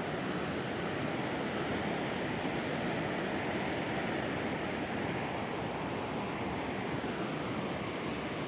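Steady rushing of flowing water from a stream, running evenly without a break.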